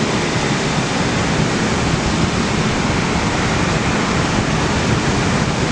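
Strong wind buffeting the microphone: a loud, steady rushing noise with a choppy low rumble.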